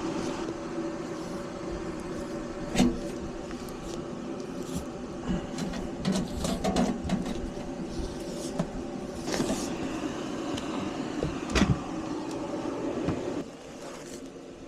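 A steady machine hum with scattered knocks and clicks on top, cutting off shortly before the end.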